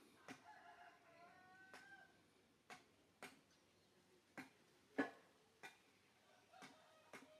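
A rooster crows once, a long call of nearly two seconds that rises slightly in pitch. Scattered sharp clicks and taps run around it, the loudest a knock about five seconds in.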